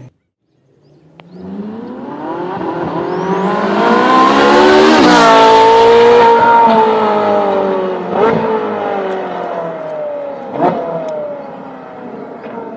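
Ferrari 458 Italia's 4.5-litre V8 through a Switzer Performance sport exhaust, accelerating hard: the engine note climbs and grows loud over about four seconds, then falls and fades as the car goes away, with two sharp pops from the exhaust partway through.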